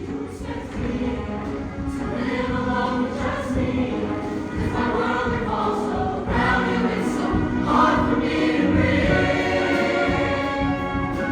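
Show choir singing with live band accompaniment.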